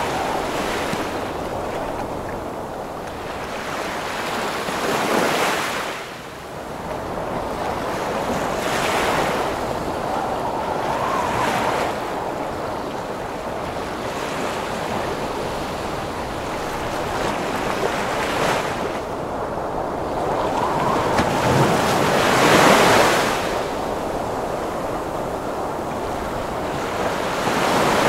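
Heavy ocean waves breaking in surges every few seconds, with strong wind blowing throughout; the loudest wave comes a little past two-thirds of the way through.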